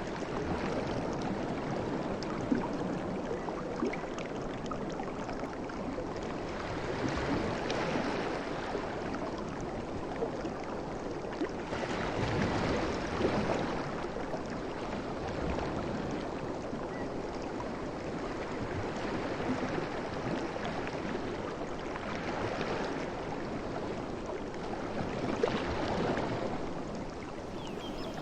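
Sea waves washing on the shore, a continuous rush of water that swells and eases every few seconds, with small crackles of fizzing foam.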